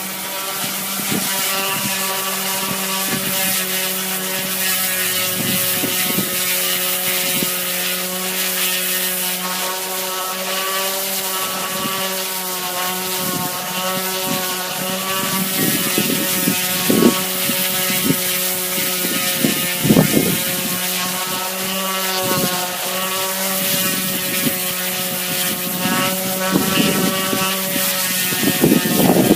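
Electric power sander running steadily on a fiberglass boat hull, a constant motor hum over a hiss of abrasion, with a few short louder rasps near the middle and the end.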